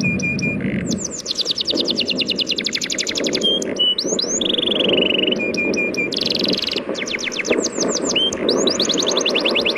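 A songbird singing rapid trills of quick, falling whistled notes, about ten a second, broken by a few short held whistles, over a steady wash of sea waves.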